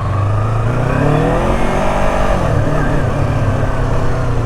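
Motorcycle engine running steadily, its note rising and then falling again between about one and two and a half seconds in.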